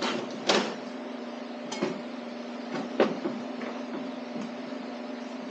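A few separate sharp metal clinks of a socket wrench being fitted to the connecting-rod cap nuts of a V8 engine, over a steady low hum.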